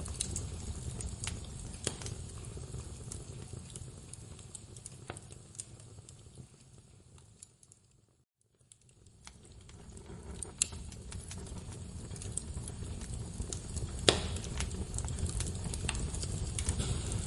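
Wood fire crackling: scattered sharp pops and snaps over a low rumble of burning. The sound fades away to near silence about halfway through, then swells back up, with a loud pop near the end.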